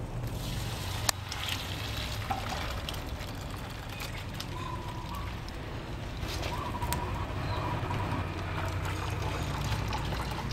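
Quiet kitchen food-preparation sounds: a sharp click about a second in, then light scattered clicks and handling noise over a steady low hum.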